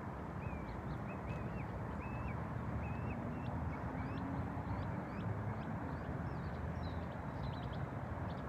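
Small birds chirping in short repeated notes over a steady rushing background noise.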